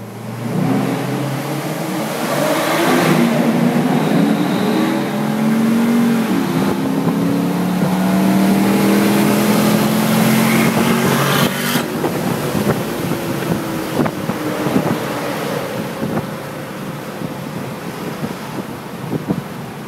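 Car engine pulling hard at full throttle, heard from inside a BMW 335's cabin, its pitch climbing again and again through the gears. About twelve seconds in it lets off with a sharp crack, and wind and road noise are left.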